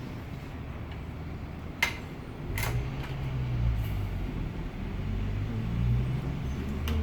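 Two sharp clicks, then an electric motor starts and runs with a low hum that swells and eases a little, as a fabric end-cutter machine is run.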